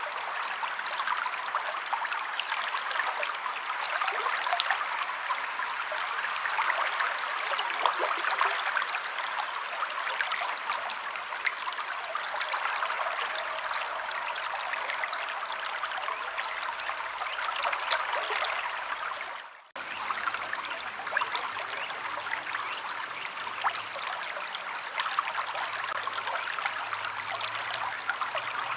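A stream flowing and trickling steadily, with a few faint, short, high bird chirps now and then. The sound drops out for a moment about twenty seconds in, then resumes.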